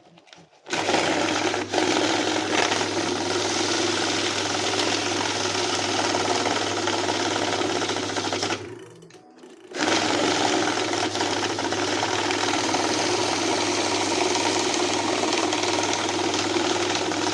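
Electric banknote counting machine running, riffling a stack of notes through with a steady whir and motor hum. It runs twice, with a pause of about a second in the middle.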